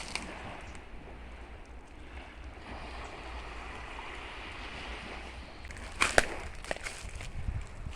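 Steady wind-like outdoor noise with a short cluster of sharp clicks or snaps about six seconds in.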